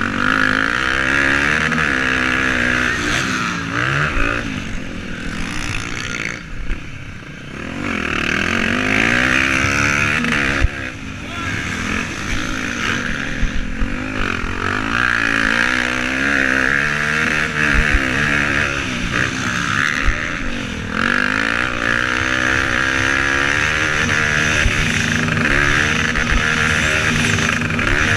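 Motocross bike engines racing, revving up and falling back again and again through the gears, with a brief quieter dip about six to eight seconds in.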